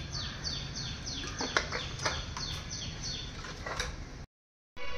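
A bird calling in a fast, steady series of short whistled notes that each slide downward, about two or three a second. A few sharp clicks sound over it, the loudest about a second and a half in, and the sound cuts out briefly near the end.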